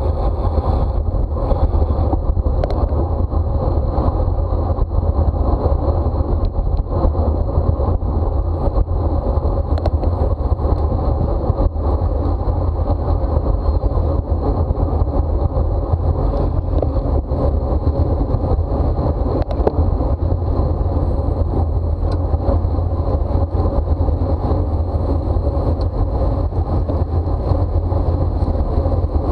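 Steady wind rush and buffeting on the microphone of a bicycle in a fast race. Tyre and drivetrain noise run underneath, and the sound is heaviest in the deep low end.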